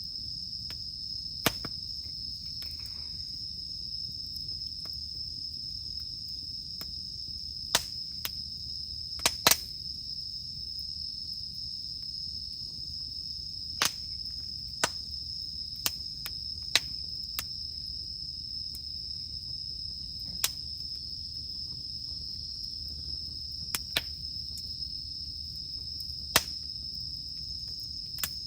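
Wood campfire crackling, with sharp irregular pops every second or few, over a steady high-pitched drone of cicadas singing.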